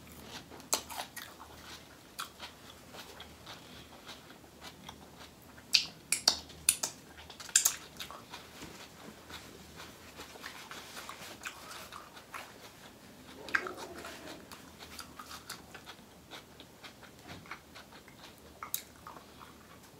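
Close-miked eating of seafood boil: chewing and biting with wet mouth clicks. A few louder sharp bites come about six to eight seconds in.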